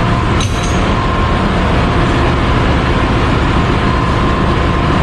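Ship's engine-room machinery running: a loud, steady din with a steady high hum through it and a brief knock about half a second in.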